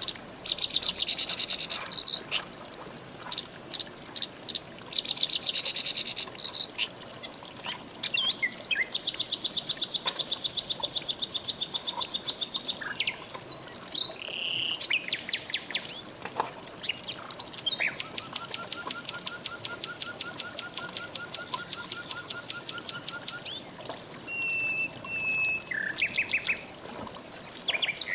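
Several songbirds calling and singing: quick high chirps, short whistled notes and long, fast trills of rapidly repeated notes, over a steady high insect buzz.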